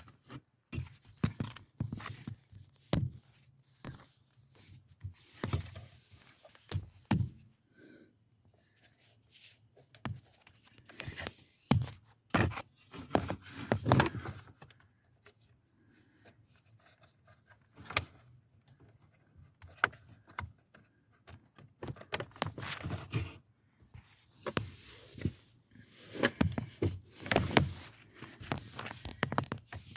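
Irregular clicks, knocks and short scrapes, as of hands handling parts and trim.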